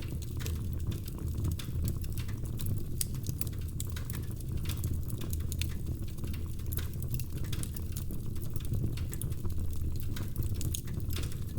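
Burning firewood crackling, with many irregular sharp pops and snaps over a steady low rumble.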